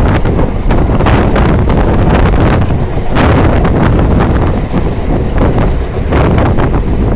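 Loud wind buffeting the microphone, a dense rushing rumble that rises and falls in irregular gusts.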